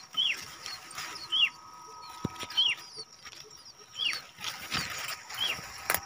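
A small bird calling: a short, high chirp that drops in pitch, repeated about five times roughly a second apart, over light rustling of grass leaves.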